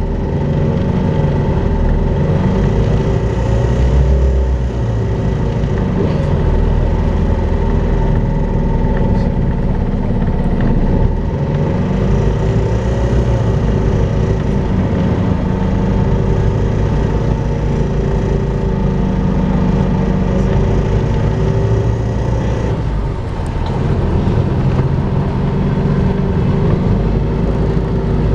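Volvo B5LH diesel-electric hybrid double-decker bus under way, its engine note rising and falling, with a steady high whine over it: the vacuum-cleaner-like 'hoovering' noise.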